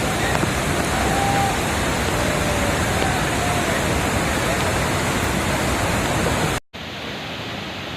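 Loud, steady rush of a waterfall swollen by heavy rain. About six and a half seconds in it cuts off suddenly and comes back quieter.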